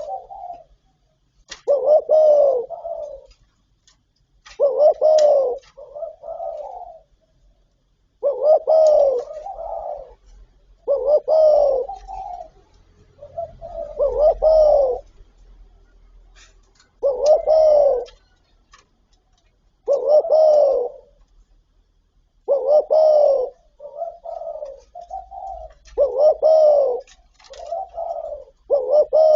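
Spotted dove cooing: a phrase of a few low, arched coos repeated about every three seconds.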